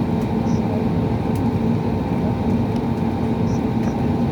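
Cabin noise inside an Airbus A320neo: a steady, even rumble of the engines and airflow, with a few faint steady tones on top and no rise or fall in pitch.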